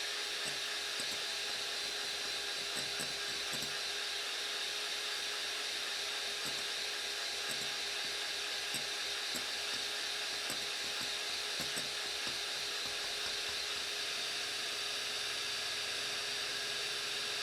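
Electric hand mixer running at high speed, whipping eggs and sugar into foam for castella batter: a steady motor whine.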